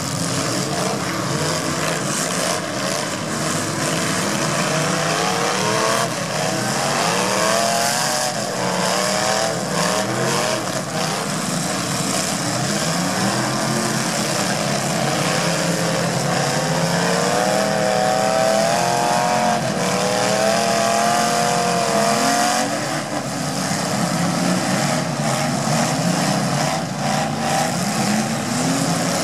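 Several demolition derby cars' engines revving hard at once, their pitch rising and falling as the drivers push and spin their wheels in the mud.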